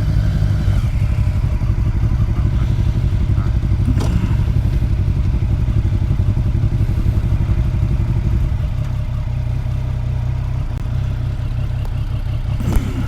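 Motorcycle engine idling with a steady low rumble. Near the end there is a clatter, then the engine cuts off and the sound drops away.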